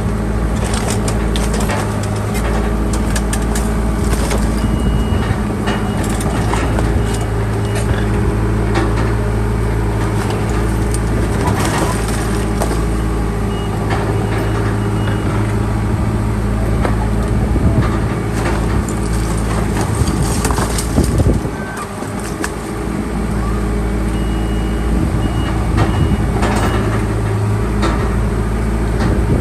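Bulldozer's heavy diesel engine running steadily under work, with clanks and rattles. A faint high beeping comes and goes a few times.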